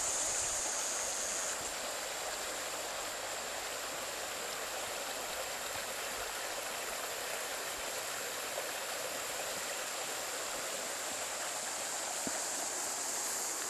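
Water in a stream flowing with a steady rushing.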